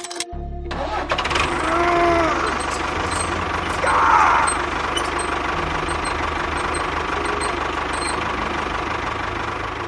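A small motorised machine running steadily with a rough, noisy hum, with a couple of brief rising-and-falling whines about two and four seconds in.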